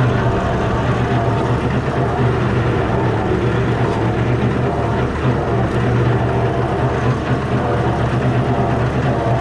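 Fordson Major tractor's straight-six Perkins diesel engine running steadily while pulling a slasher through grass.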